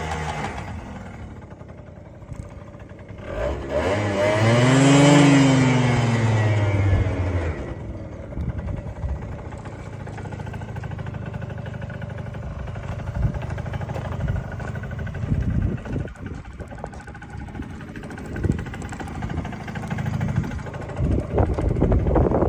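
Honda Lead 50 (AF20) scooter's two-stroke single-cylinder engine running; about four seconds in the throttle is blipped once, the pitch rising and falling back over a few seconds, then it settles back to idle with some irregular rattling, louder near the end.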